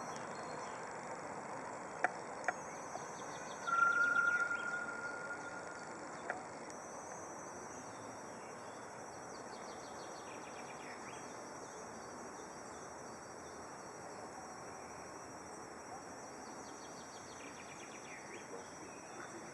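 Outdoor ambience of insects chirring steadily at a high pitch, with two sharp clicks about two seconds in and a single held whistling note of a couple of seconds, the loudest sound, starting near four seconds in.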